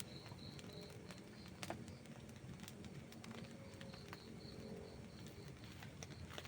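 Outdoor wood campfire crackling, with scattered sharp pops; the loudest comes about one and a half seconds in. A faint, high pulsed chirping sounds twice in the background, once at the start and once near the middle.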